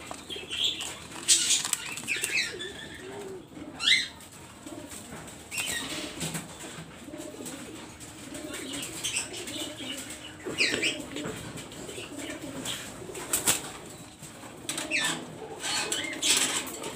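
Doves cooing over and over, with wing flaps and short high chirping calls breaking in now and then.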